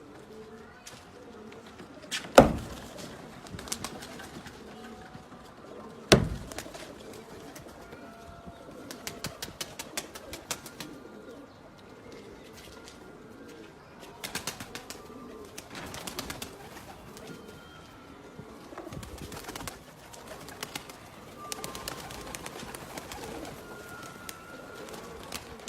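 Domestic pigeons cooing, with two loud sharp knocks, one about two seconds in and another about six seconds in, and several short runs of rapid clicking later on.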